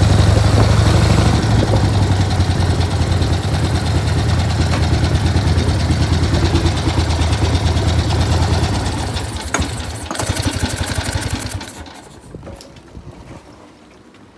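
1981 Harley-Davidson XLH1000 Ironhead Sportster's air-cooled V-twin idling steadily after two months unused. About nine seconds in it is shut off, and its sound dies away by about twelve seconds.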